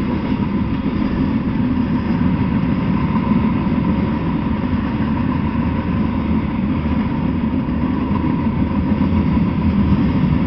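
Freight train of tank cars and covered hopper cars rolling past on the rails: a steady low rumble.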